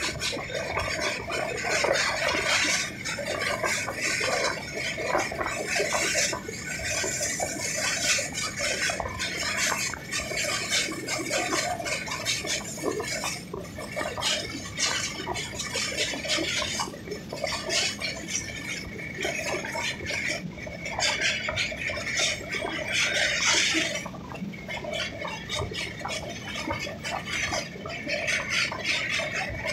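Train running across a riveted steel truss railway bridge, heard from an open coach door: a continuous, loud clattering rattle of wheels and steelwork with fast irregular strokes.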